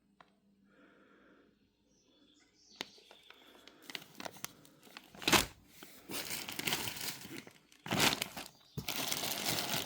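Plastic bags crinkling and rustling as packaged pyrotechnic items are handled and pulled out, starting about three seconds in, with a couple of sharper, louder crackles.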